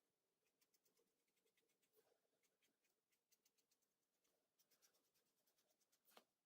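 Faint scratching strokes of colouring on a colouring-book page, short and repeated, with one sharper tap about six seconds in.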